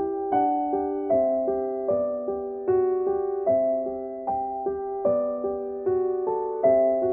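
Background piano music: chords struck at an even pace, a little more than one a second, each fading before the next.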